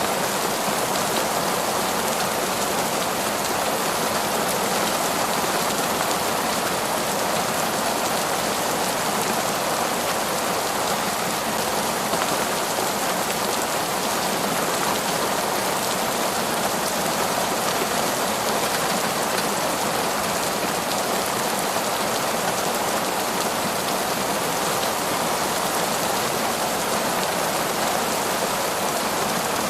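Heavy, steady rainfall, a dense even hiss of rain with no thunder or other events standing out.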